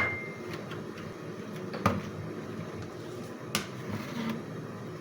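Kitchen dishes being handled: a dish clink rings out and fades at the start, then two light knocks, one about two seconds in and one about three and a half seconds in, over low steady room noise.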